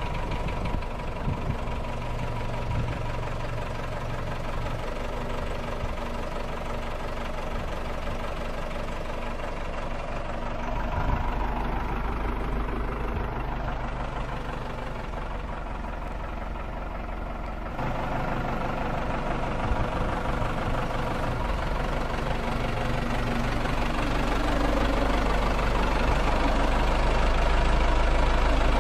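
2001 Case 580 Super M backhoe's diesel engine running, steady at first, its note shifting about a third of the way in and gradually growing louder toward the end.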